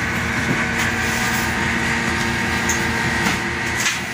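A steady mechanical hum with a constant high whine, over a bed of room noise.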